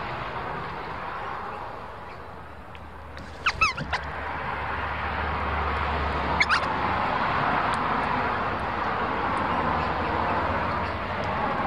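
Two short bird calls, the first a quick run of sliding notes about three and a half seconds in and the second a single note about six and a half seconds in. Both sit over a steady rushing background noise that dips and then swells again.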